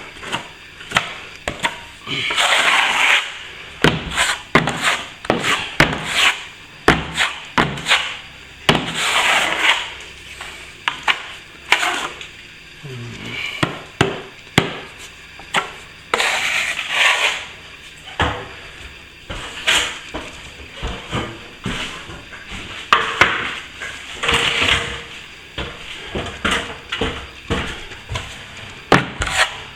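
A plastering tool scraping and tapping as cornice cement is pressed into and smoothed along a ceiling-to-wall crack: frequent sharp clicks and knocks, with a longer rasping scrape every few seconds.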